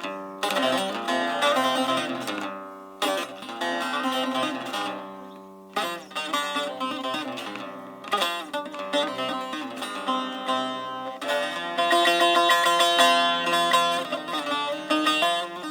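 A solo plucked string instrument improvising: single picked notes and short phrases that ring out between brief pauses, turning to rapid, dense picking about two thirds of the way through.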